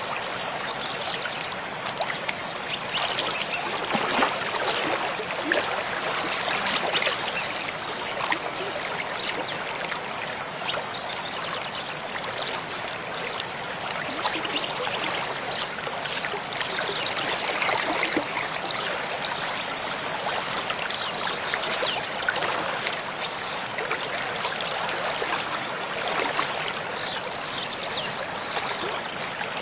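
Mountain stream flowing steadily over rocks, a continuous rush and trickle of water.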